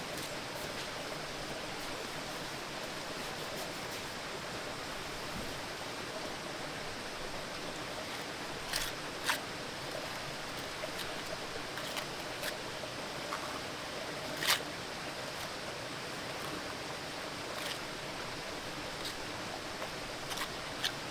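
Steady hiss of outdoor background noise with a handful of short, sharp clicks, the loudest about two-thirds of the way through.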